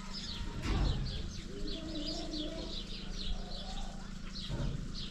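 Small birds chirping rapidly and continuously, with fainter lower calls in the middle and two low thumps, one about a second in and one near the end.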